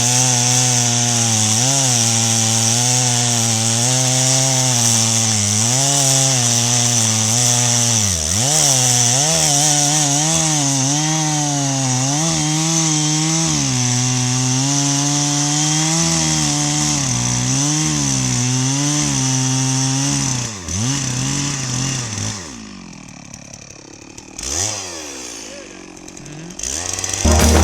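Stihl MS 660 two-stroke chainsaw cutting wood at high revs, its engine note dipping and recovering again and again as the chain bogs in the cut. About twenty seconds in it drops off to a much quieter sound, with one short rev near the end.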